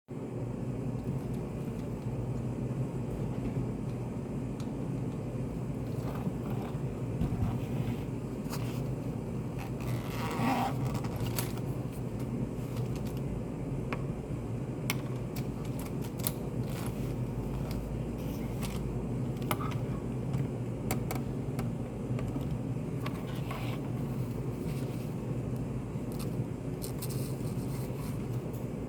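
Study café room ambience: a steady low hum, with scattered small clicks and taps and a brief louder noise about ten seconds in.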